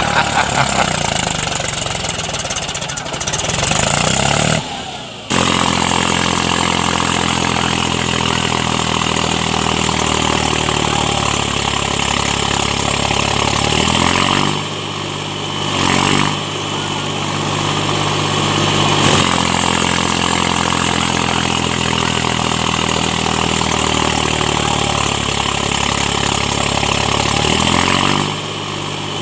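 Small tractor's engine running steadily, with an abrupt break about five seconds in. Its speed dips and picks back up a few times in the second half.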